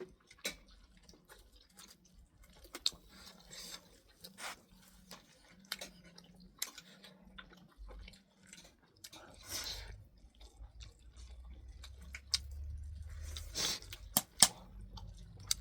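A person chewing a mouthful of rice and chicken-and-bean curry, with scattered small clicks and taps throughout.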